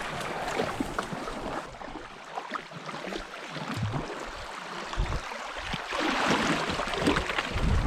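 Water splashing and sloshing around a boat on a river, with wind buffeting the microphone near the start and end.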